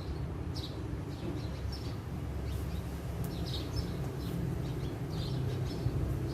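Birds giving short, high chirps at irregular intervals, several times over, above a steady low rumble.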